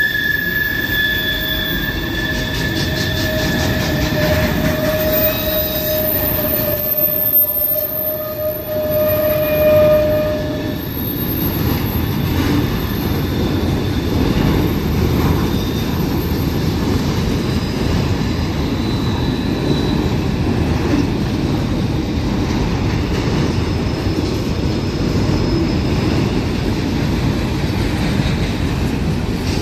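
Freight train cars rolling past with a steady rumble. High-pitched wheel squeal rings over it for the first ten seconds or so, then fades out.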